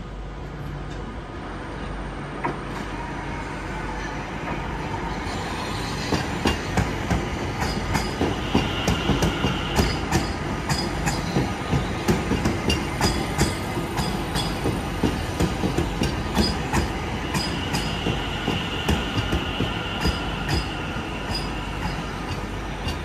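London Overground Class 710 electric train running into the platform. Its wheels clack in a rapid, uneven run over rail joints and points from about six seconds in, over a steady rumble. A faint wheel squeal comes twice.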